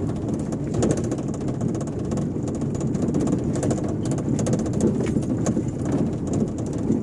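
2011–2012 Fiat Uno driving over steady road and engine noise, with irregular rattling knocks that sound like loose door glass or the passenger door banging. The owner traces the rattle to a loose cable under the car, which he takes for a brake or handbrake cable.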